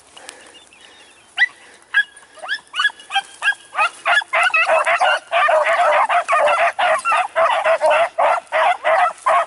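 Pack of beagles baying as they run a rabbit's scent trail: a few scattered cries at first, then several hounds opening together about four seconds in, in a steady, overlapping chorus.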